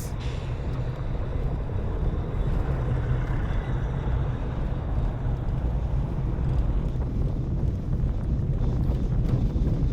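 A car driving along a road: steady low rumble of engine and tyre noise.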